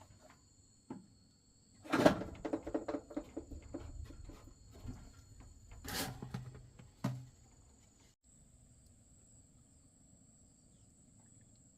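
Crickets or other insects chirring steadily in high tones, over which a loud knock about two seconds in starts a few seconds of irregular clattering with a brief ringing, followed by another burst about six seconds in and a last knock a second later.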